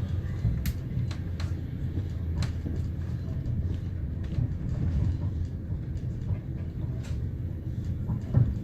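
Intercity passenger train running at speed, heard from inside the carriage: a steady low rumble of wheels on rail with scattered sharp clicks and a louder knock near the end.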